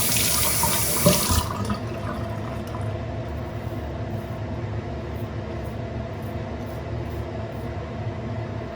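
Tap water running into a sink, shut off about a second and a half in, with a knock just before it stops; after that only a steady low background hum.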